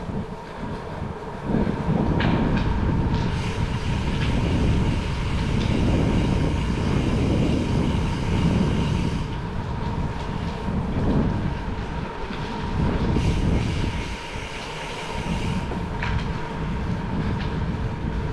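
Bicycle rolling through a long rail tunnel: a steady low rumble from the tyres and riding, swelling and easing, with some hiss in the middle and again near the end.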